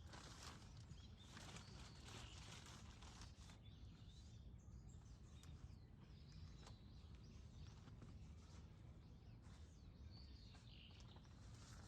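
Near silence: faint outdoor morning ambience with a low rumble and a few faint bird chirps.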